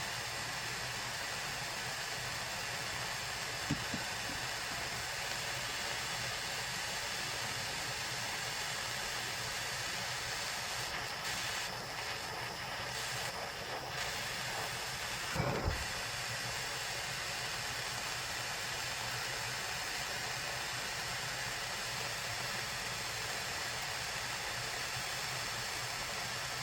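Steady hiss with two brief knocks, a light one about 4 s in and a louder one about 15 s in.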